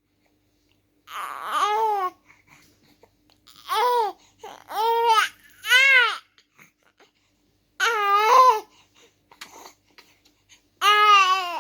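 Three-month-old baby cooing and babbling: about six short, drawn-out vocal sounds, each rising and falling in pitch, with pauses between them.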